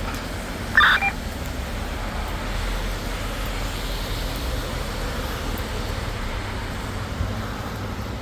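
Steady rumbling outdoor noise of rain and road traffic, with one short electronic beep about a second in.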